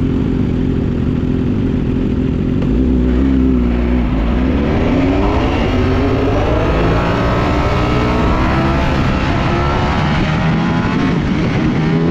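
Ducati Panigale V4S V4 engine running steadily, then revving up from about four seconds in, its pitch climbing and then wavering as the bike holds speed.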